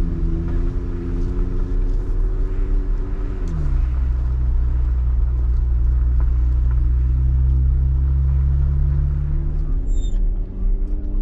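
Engine of a four-wheel-drive vehicle running steadily as it drives a dirt trail, heard from inside the cab with a deep rumble. About three and a half seconds in, the engine note drops quickly to a lower steady pitch, then rises again near the end.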